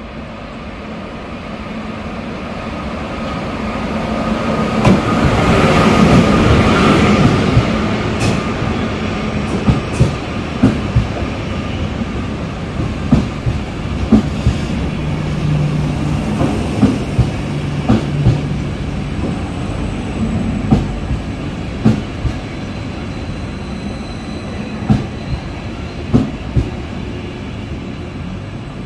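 A train approaching and passing, loudest about six seconds in, then rolling on with its wheels clacking over rail joints again and again.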